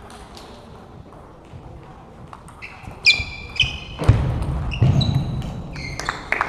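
Table tennis play in a sports hall: sharp clicks of the ball, short high shoe squeaks on the floor from about three seconds in, then louder voices in the hall.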